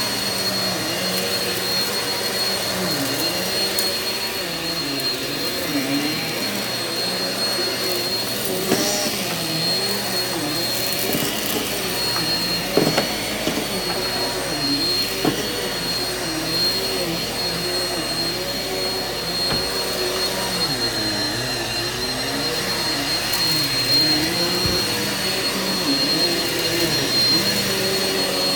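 Eureka vacuum cleaner running on carpet, pre-vacuuming dry soil, with a steady high whine. Its lower hum rises and falls in pitch about once a second, and there are a few short clicks.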